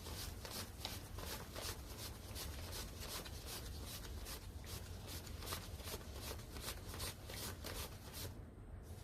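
Paper banknotes being counted by hand, each bill rustling as it is flicked off the stack, several a second, with a brief pause near the end.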